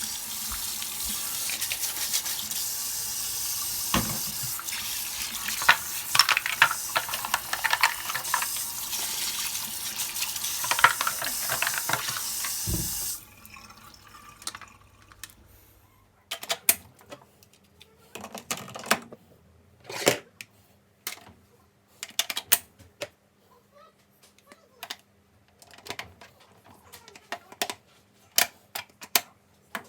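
Water running steadily, cutting off suddenly about thirteen seconds in, followed by a string of light, scattered clicks and knocks.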